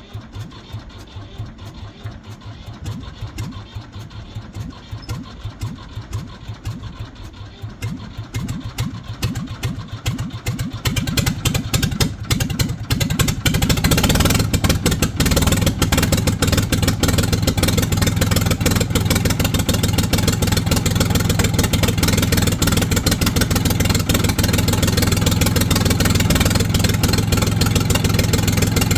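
Ford 4500 backhoe's diesel engine running with a rapid, even beat, quieter and rougher at first, then louder and steady from about halfway through.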